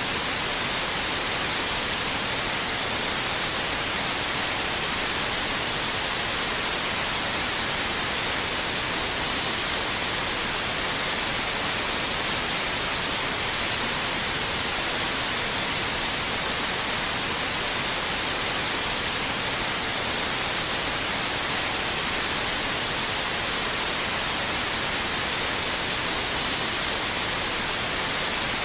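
Synthetic white noise: a steady, unchanging hiss, brightest at the top.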